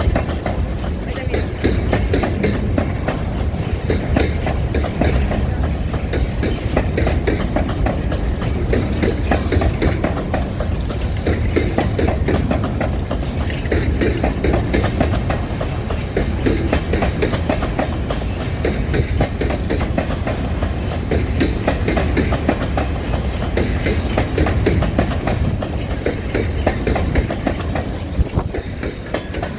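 Train rolling along the rails, a steady loud rumble with a constant clickety-clack of wheels over the track.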